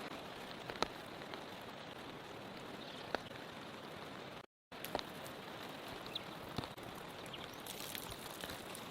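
Steady rain falling, with scattered sharper drops ticking on a nearby surface. The sound cuts out completely for a moment about halfway through.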